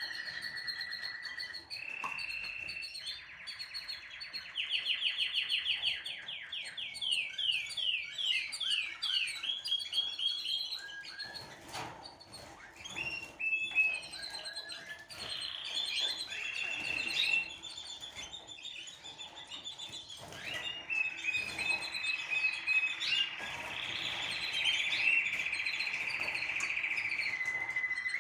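A small songbird singing continuously. The song is a run of long, rapid trills and quickly repeated sweeping notes, high-pitched and steady in level.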